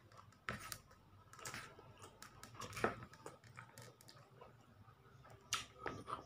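Close-up chewing of rice soaked in soy sauce and cooking oil, with fingers pressing and gathering the oily rice on a plate: a faint scatter of soft clicks and smacks, the sharpest about three seconds in.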